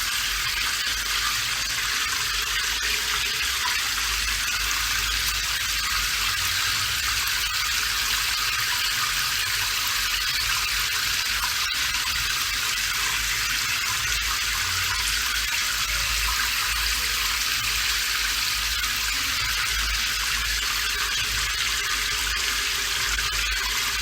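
Steady rain: an unbroken hiss of falling water, with a low rumble underneath.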